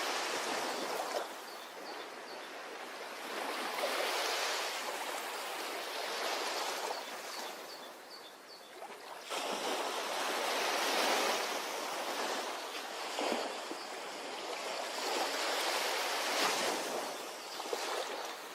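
Ocean surf washing onto a beach, swelling and ebbing in waves, with a lull and then a fresh wave breaking about nine seconds in.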